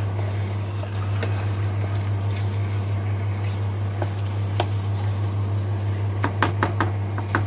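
Chicken and onion-tomato masala frying and sizzling in a non-stick pan while a wooden spatula stirs and scrapes through it, browning (bhuna) the chicken. A steady low hum runs underneath, and there are a few sharp scrapes of the spatula, several close together near the end.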